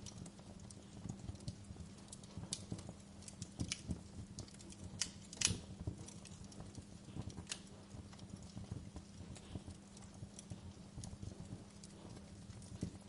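Fireplace crackling: irregular small pops and snaps over a low steady hum, with one louder pop about five and a half seconds in.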